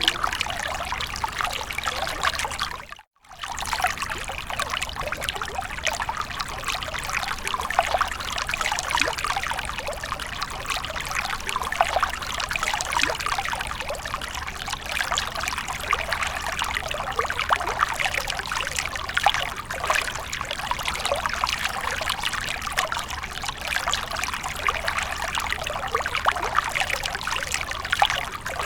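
Water falling and trickling in a fountain, a steady splashing flow. It cuts out for a moment about three seconds in, then goes on as before.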